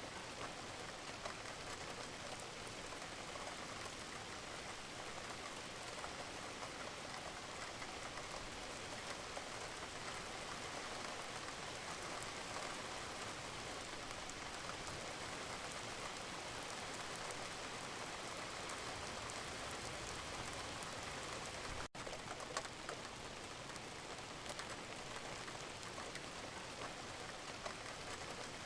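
Steady rain: a dense, even hiss of falling water with many small drop ticks. The sound cuts out for a split second about 22 seconds in, then carries on unchanged.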